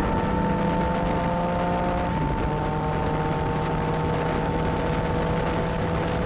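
Motorcycle engine running at a steady speed under wind and road noise, its pitch dropping a little about two seconds in.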